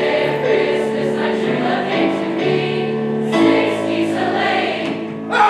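Choir singing held chords in several parts, the notes changing about once a second. Near the end the audience breaks into loud cheering.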